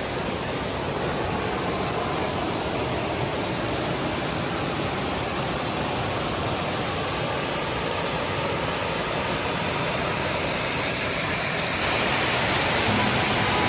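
Waterfall water pouring and splashing: a steady rushing hiss that gets a little louder and brighter near the end.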